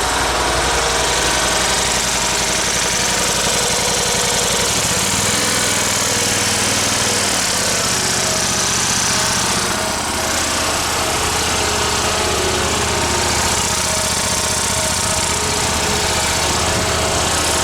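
Dixon zero-turn mower's Kohler engine running steadily on newly fitted ignition coils and spark plugs. About five seconds in its pitch rises briefly, then it settles back to a steady run.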